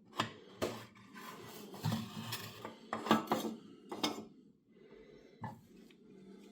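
Hard metal and wooden parts being handled and set down: a run of clinks and knocks with scraping between them for about four seconds, then quieter with one more knock.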